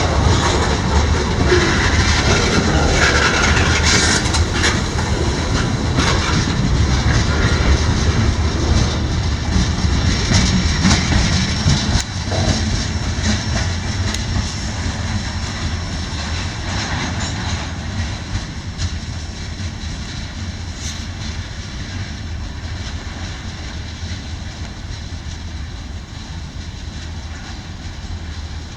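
Freight train cars rolling past on the rails: a steady rumble with a few sharp clicks in the first seconds, slowly fading as the train draws away.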